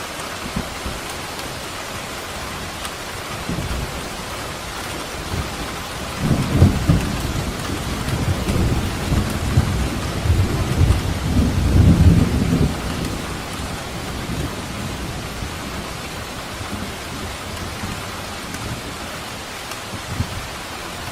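Steady rain falling, with a roll of thunder rumbling low from about six seconds in, swelling to its loudest around twelve seconds and fading out by about thirteen seconds.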